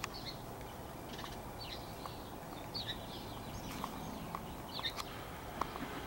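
Birds chirping outdoors: a run of short, high chirps coming every half second or so, over a steady background hiss.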